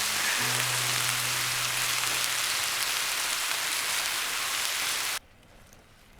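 Jingisukan (lamb) sizzling on a hot pan, a loud steady hiss that cuts off abruptly about five seconds in.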